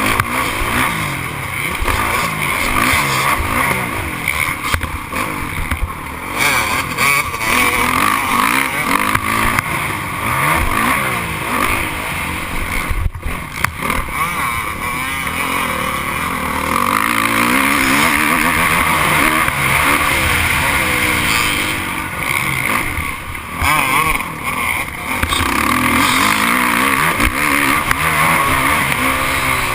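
Motocross dirt bikes racing, their engines revving high and dropping back again and again without a break.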